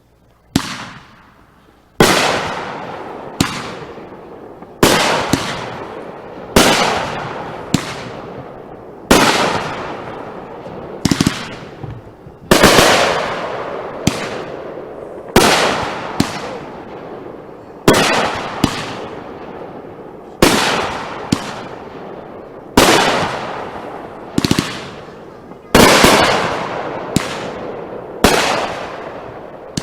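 Aerial consumer fireworks going off in steady succession: a sharp bang about every second and a half, each fading off in a hissing tail, with smaller pops in between. The firing starts about two seconds in, after one early pop.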